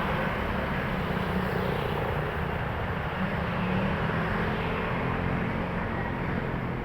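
Highway traffic with heavy trucks passing: steady diesel engine drone and tyre noise.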